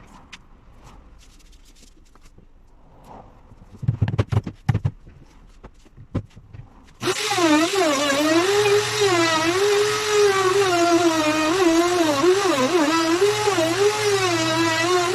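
A few handling clicks and a short run of loud knocks, then about halfway through a power tool motor starts and runs continuously, its whine wavering up and down in pitch as it works.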